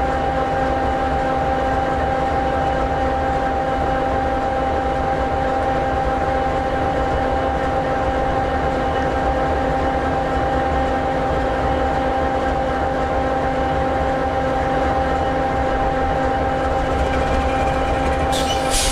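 EMD 16-710G3B V16 two-stroke diesel of an SD60E locomotive idling steadily, a constant drone with a steady whine on top. A hiss starts near the end.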